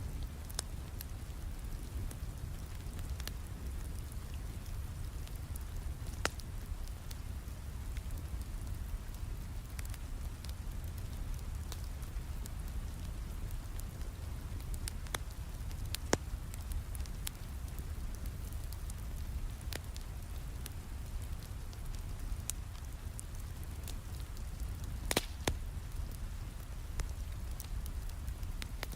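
Steady rain with a deep rumble, mixed with a fireplace crackling: scattered sharp pops and snaps, a few louder ones near the end.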